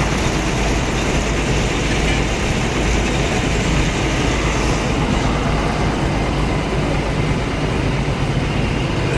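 Heavy vehicle engine running with a steady, loud rumble under a constant noisy haze.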